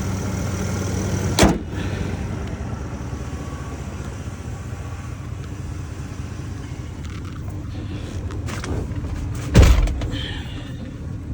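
Ford 6.2-litre gas V8 of a 2015 F350 running as the truck drives, with the ticking of an exhaust manifold leak that goes away once the engine warms up. Two sharp thumps, about a second and a half in and near the end, the second the loudest.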